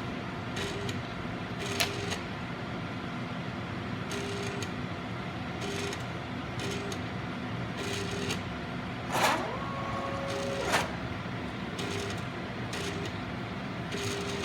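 Agilent 7693A autosampler sample tray making unusual mechanical noises. Its motors hum steadily, with short repeated motor buzzes and clicks, a rising whine about nine seconds in, then a brief steady tone and a sharp click just before eleven seconds.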